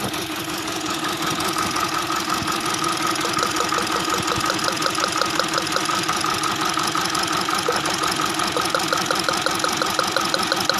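Hyundai Accent engine idling with a fast, even ticking over it, running rough from a misfire: cylinder 2 gets no spark, which the owner traces to the number 2 ignition coil, its wiring or the ECM.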